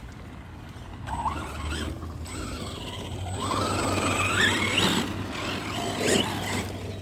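Electric RC monster truck's motor and geartrain whining as it accelerates, the pitch climbing and then dropping off, with a short knock about six seconds in.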